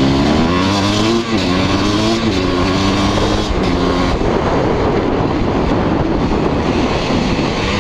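KTM dirt bike engine revving up under way, its pitch climbing and dropping back twice in the first couple of seconds as it shifts gear. After about four seconds the engine note blurs into a steady rush of engine and wind noise.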